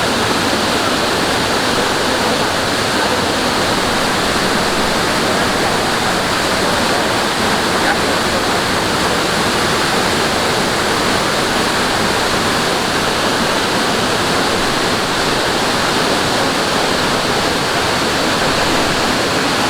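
Mountain stream water rushing over rocks and small falls: a steady, loud, unbroken rush.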